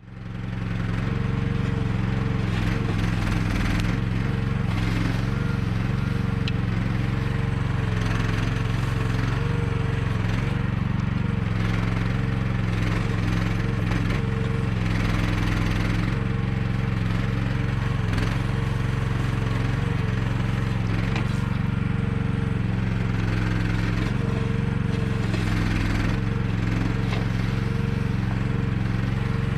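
Engine of an AGT QH12R mini excavator running steadily, with a higher tone that comes and goes every few seconds as the machine works.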